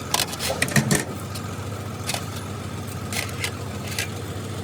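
A steady low engine hum with irregular sharp clicks and taps on top, several close together in the first second, then single ones spaced out.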